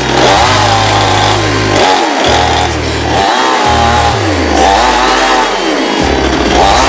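Petrol chainsaw engine revving up and down over and over, roughly once a second, against electronic music with a heavy, stop-start bass line.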